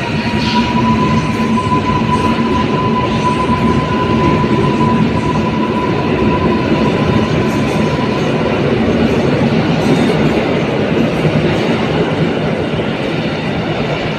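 Koleje Mazowieckie electric passenger train running on the rails, a loud steady rumble of wheels with a thin high whine that holds for the first half and then fades out.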